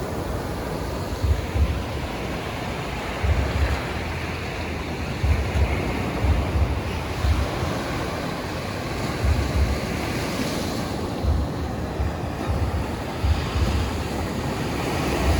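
Sea surf washing in and out on the beach, a steady rush that swells twice as waves break, with wind buffeting the microphone in irregular low thumps.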